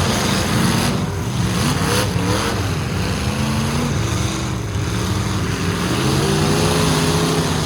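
Several full-size pickup truck engines running and revving at once in a demolition derby, their pitches rising and falling against each other.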